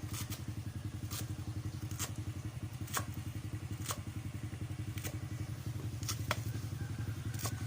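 A small engine runs steadily with a fast, even throb. Sharp, short knocks come roughly once a second over it.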